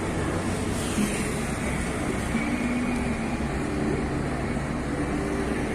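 Scania K440 double-decker coach's diesel engine idling, a steady low running sound with a slight change in pitch partway through.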